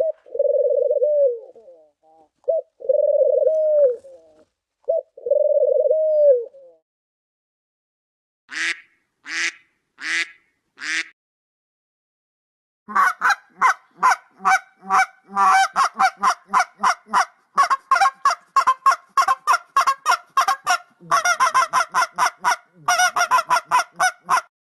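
A run of animal calls that changes twice. It opens with repeated one-second pitched calls that dip at the end, then four short harsh calls. From about halfway in comes a long run of rapid short calls, several a second, which is the loudest and longest part.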